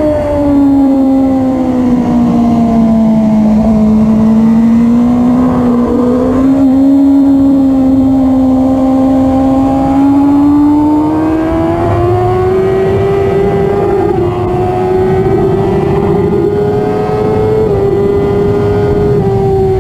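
Suzuki GSX-R1000R L7's inline-four engine running hard on track. Its note falls over the first few seconds as the bike slows into a corner, holds low through the long bend, then climbs steadily as the bike accelerates out onto the straight.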